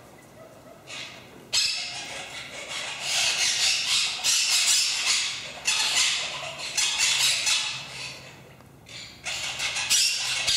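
Birds squawking and chattering in harsh, high-pitched stretches of a few seconds each, starting about a second and a half in, with short quieter gaps.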